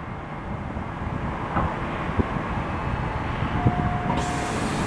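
NJ Transit commuter train with an ALP-45A locomotive running at the platform: a steady low rumble with a few sharp clicks. A brief single steady tone sounds about three and a half seconds in, and a sudden hiss comes in near the end.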